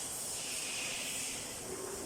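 Steady high hiss with no distinct knocks or tones.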